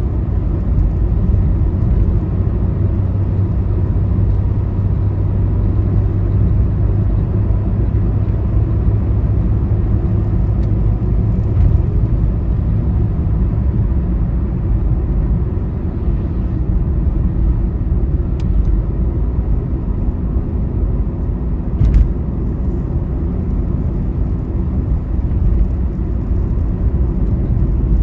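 Steady low rumble of engine and tyres from a vehicle travelling along a highway, with one brief sharp click about 22 seconds in.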